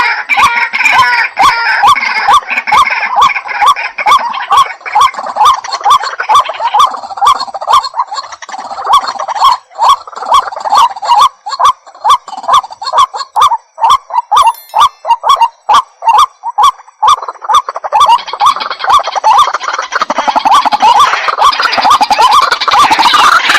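White-breasted waterhen calling: a long run of short, loud notes repeated about three times a second. The calls are denser and overlapping at the start and again from about three quarters of the way in.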